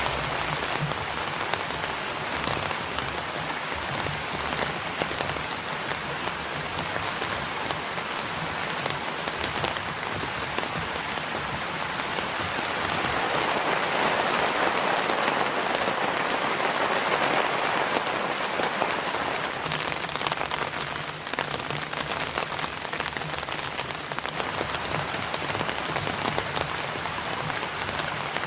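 Steady rain falling, a dense hiss with many separate drops pattering, growing somewhat heavier about halfway through before easing back.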